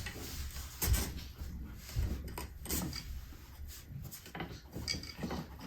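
Wooden knocks and clatter from the treadles of a Schacht Baby Wolf floor loom being handled as their tie-up cords are fastened, with the sharpest knocks about a second and two seconds in.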